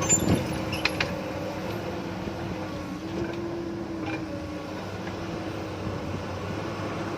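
Diesel engine of heavy construction machinery running steadily with a constant hum, with a few light clanks in the first second and another about four seconds in.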